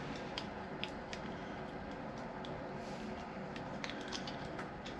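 Small plastic parts of a toilet fill valve kit being handled, with scattered light clicks and rustling over a steady background hiss.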